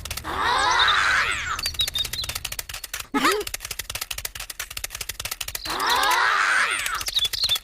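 A small engine of a DIY mini tractor running with fast, even ticking. Twice a drawn-out wavering sound with many overtones, rising and falling, rides over it.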